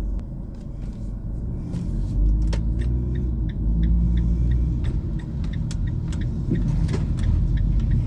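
Low road and engine rumble heard from inside a moving car, with scattered light ticks.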